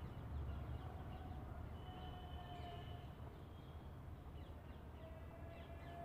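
Faint bird chirps and short whistles over a low, steady background hum.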